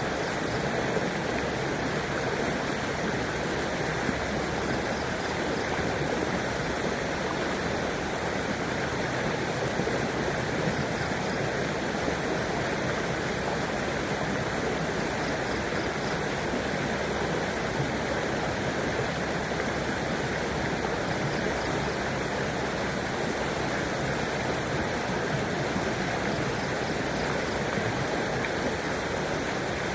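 River water flowing steadily, an even rushing sound that holds level throughout.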